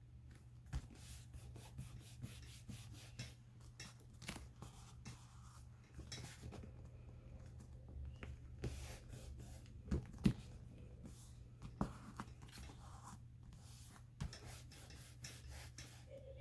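Paper being handled and rubbed: soft rustling and scraping with scattered light taps and clicks, the sharpest a pair of taps about ten seconds in, over a low steady hum.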